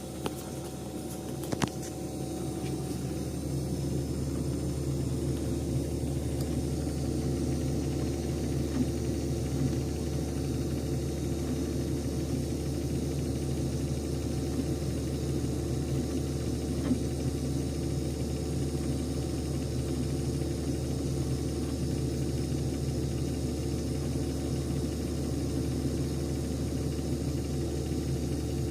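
Beko Nex 9506 refrigerator running loudly with a steady low hum; a few clicks come in the first two seconds, and the hum grows a little louder about four seconds in. The owner counts this noise as abnormal, and it has persisted through a hose-length adjustment, a solenoid silencer and a fan replacement.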